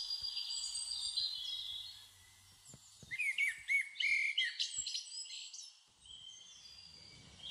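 Birds chirping and singing, several high calls overlapping, with a busy run of quick looping chirps in the middle.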